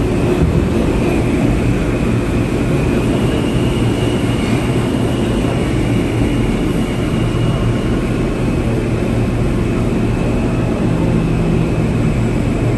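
New York City subway train running through the station: a loud, steady rumble with a faint high whine over it.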